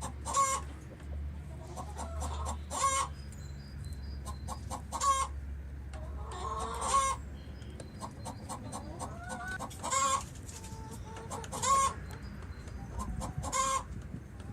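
Chickens clucking: short, sharp calls repeated about every second or two, some in quick pairs.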